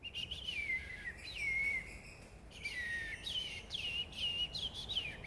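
Green-winged saltator (trinca-ferro) calling: about eight whistled notes that glide down in pitch, coming closer together in the second half.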